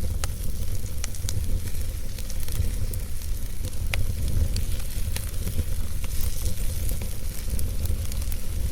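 Wood campfire burning, with irregular crackles and pops over a steady low rumble.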